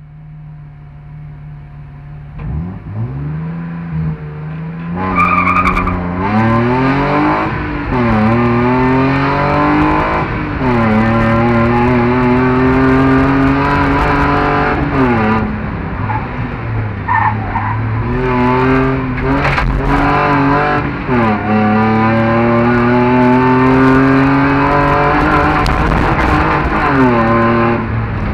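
In-cabin sound of a BMW 320i rally car's straight-six engine, idling at first, then revved and driven hard from a stage start, its pitch climbing and dropping back at each upshift as it accelerates through the gears, about five times.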